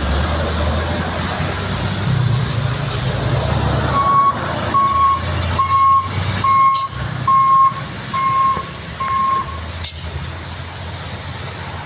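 Truck diesel engine running steadily. About four seconds in, a reversing alarm beeps seven times, a little more than one beep a second, then stops.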